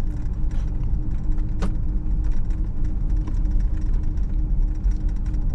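A car running with a steady low engine and road rumble, and small knocks and rattles from the vehicle.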